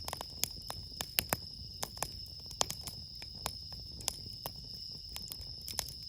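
Campfire wood crackling, with irregular sharp pops and snaps, over the steady high ringing trill of crickets.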